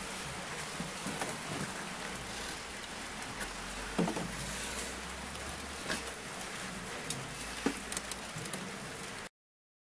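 Steady rain with scattered patter and drips, cutting off suddenly near the end.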